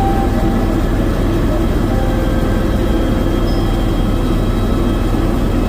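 Helicopter in flight heard from inside the cabin: a loud, steady engine and rotor drone.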